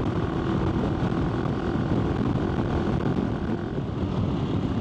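AJP PR7 motorcycle's single-cylinder engine running steadily under way, mixed with wind rushing over the microphone.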